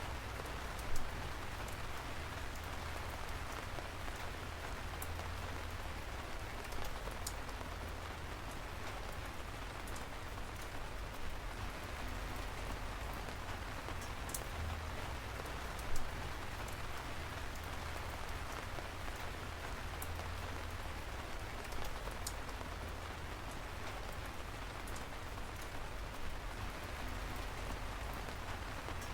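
Steady rain falling, an even patter with a few louder single drops striking close by, the sharpest about a second in and midway through.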